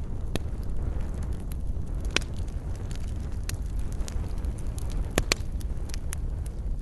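Wood campfire burning: a steady low rumble with irregular crackling and sharp pops of burning wood, the loudest a pair of quick pops about five seconds in.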